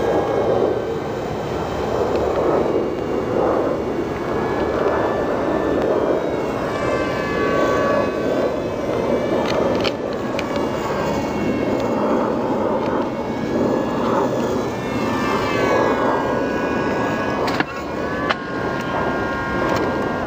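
Air Hogs X-Twin R/C foam airplane's twin electric motors and propellers whining in flight, the whine fading in and out and gliding up and down in pitch as the plane passes and the throttle changes. A steady rush of wind on the microphone runs under it, with a couple of sharp clicks near the end.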